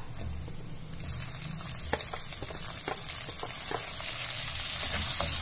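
Chopped tomatoes and onions sizzling in hot coconut oil in an earthenware pot. The sizzle strengthens about a second in as the tomatoes go in and keeps growing louder, with a few light clicks.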